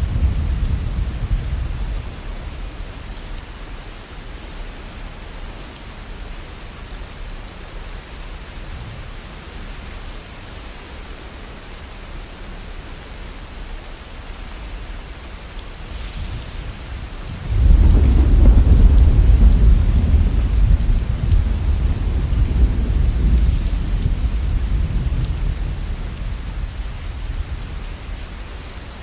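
Heavy rain falling steadily, with rolls of thunder: a low rumble dying away in the first couple of seconds, then a sudden loud roll of thunder a little past halfway that slowly fades.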